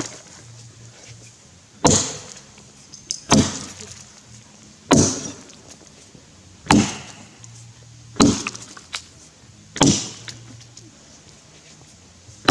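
A felling axe chopping into a green Grey Gum log: sharp single strikes about every one and a half seconds, six of them, with a seventh right at the end.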